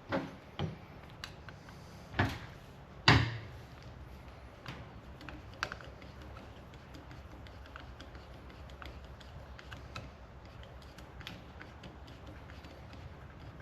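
Irregular clicks and knocks of small metal master-cylinder parts and hand tools being handled during reassembly. There are four louder knocks in the first three seconds, then lighter scattered taps.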